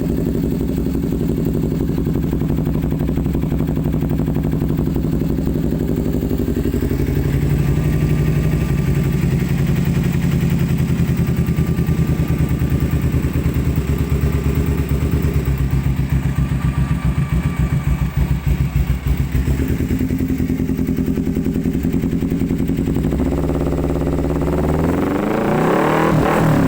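Kawasaki Ninja 250 motorcycle engine running through an aftermarket R9 exhaust: steady idle, held a little higher after about seven seconds, then revved with the pitch climbing near the end.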